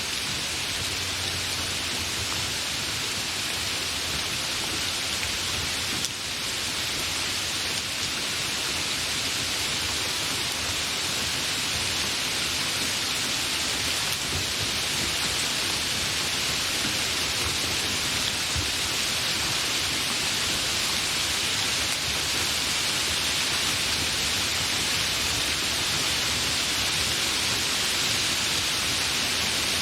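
Steady rain falling, a dense even hiss, with a brief slight drop in level about six seconds in.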